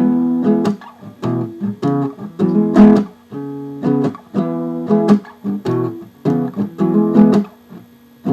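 Acoustic guitar strummed in a steady, even rhythm with no singing: an instrumental passage between verses of a blues-folk song.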